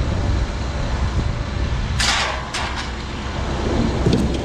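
A vehicle engine running steadily with a low rumble. A short sharp noisy burst comes about two seconds in, and a couple of light clicks come near the end.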